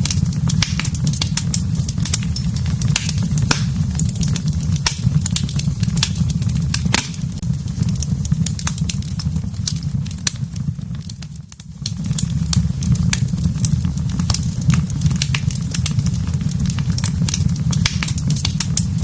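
Fire burning in a fireplace: a steady low rumble with frequent sharp crackles and pops. The rumble fades briefly about 11 seconds in, then comes back.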